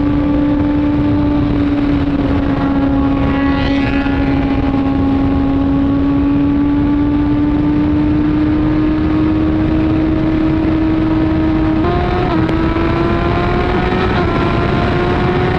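Suzuki GSX-R1000R inline-four with an Arrow exhaust running at steady highway speed under heavy wind rush. The engine note sags slightly, then about twelve seconds in gives a brief step and climbs steadily as the bike accelerates. Another vehicle's engine note slides past briefly a few seconds in.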